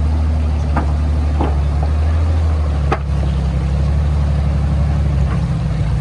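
Supercharged Toyota Tacoma's engine running steadily at low revs, a deep drone, with a few sharp knocks and clicks at about one, one and a half and three seconds in.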